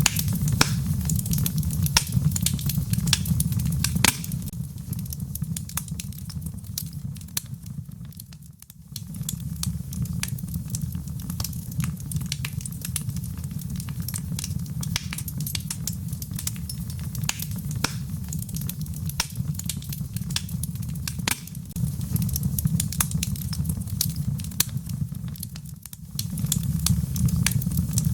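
Wood fire crackling, with frequent sharp pops and snaps over a low steady rumble, and a soft patter of rain behind it. The sound drops away briefly about a third of the way in and again near the end.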